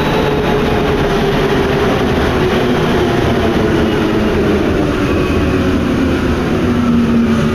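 Paris Métro MP89CA rubber-tyred train running, a steady rumble with a drawn-out whine from the traction equipment whose pitch eases slightly lower.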